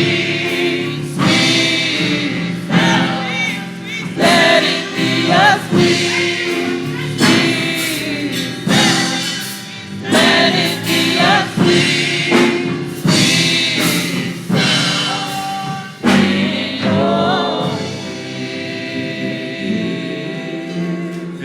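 Choir singing a slow gospel song with musical accompaniment.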